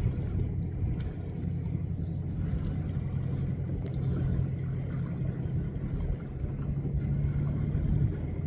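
Boat engine running steadily with a low hum, over wind and water noise; the hum rises slightly in pitch near the end.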